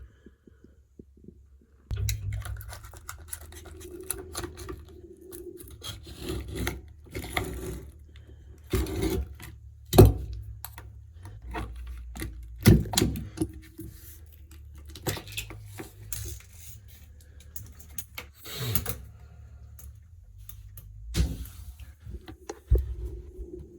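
Plastic quadrant trim being prised off a shower tray and old silicone scraped away: scraping and rubbing, with sharp cracks and knocks every few seconds, the loudest about ten seconds in.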